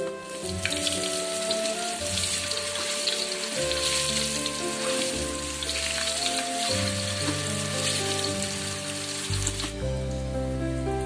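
Food sizzling and frying in a hot pan, a dense crackling hiss that cuts in about half a second in and stops abruptly near the end. Soft background music with held notes plays under it.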